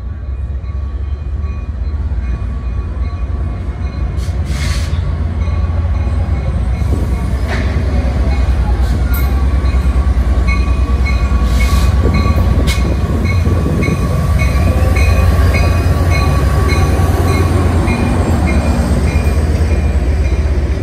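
Trinity Railway Express diesel commuter train with bilevel coaches pulling into the platform: a heavy low rumble that grows louder, a steady high squeal from the wheels, and from about halfway a regular ringing less than twice a second.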